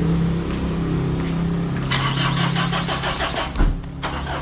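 Car engine running steadily, with a rapid, even clatter for about a second and a half in the middle. A single heavy thump comes near the end.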